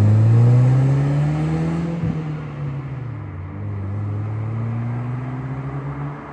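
2004 Volkswagen Jetta's 2.0-litre four-cylinder engine with the muffler deleted. The exhaust note rises steadily in pitch for about two seconds, drops back, then climbs slowly again.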